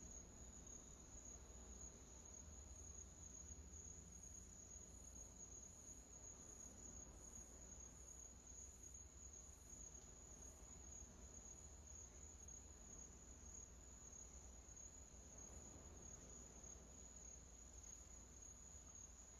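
Near silence: quiet room tone with a faint, steady high-pitched trill throughout.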